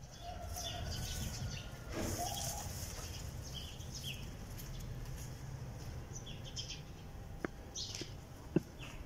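Small birds chirping in short, high calls scattered throughout, over a steady low rumble, with two sharp clicks near the end.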